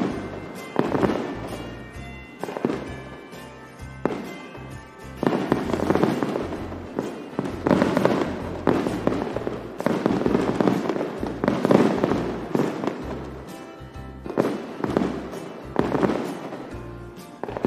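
Aerial fireworks bursting again and again, each sharp bang trailing off over a second or so, with music playing underneath.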